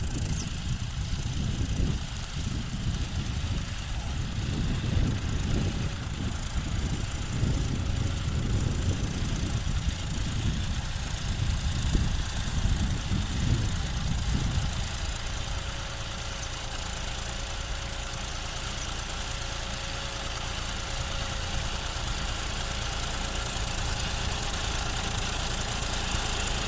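John Deere 5405 tractor's diesel engine running, with a heavy, uneven low rumble for about the first fifteen seconds, then settling to a steadier, slightly quieter run.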